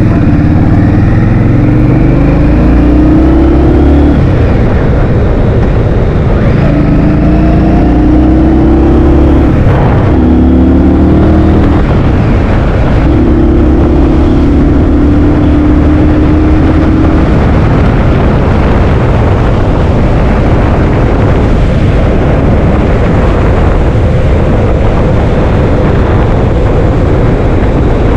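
A motorbike engine pulls up through the gears. Its note climbs, drops at each shift and climbs again, under heavy wind buffeting on the microphone. After about seventeen seconds the engine note fades into a steady wind rush.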